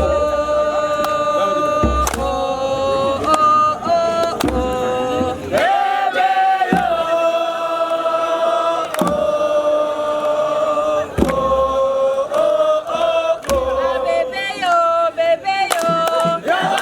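A group of voices chanting a song together in long held notes that slide between pitches. A few low thumps fall at irregular moments.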